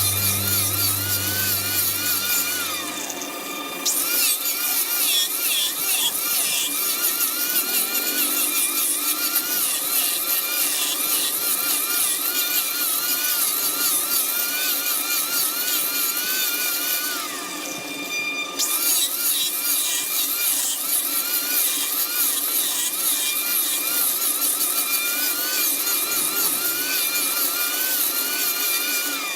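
Wood lathe running while a cutting tool shaves the spinning wood: a steady hiss with a wavering whine. The cutting hiss stops briefly twice, once a few seconds in and once about two-thirds through, as the tool comes off the wood.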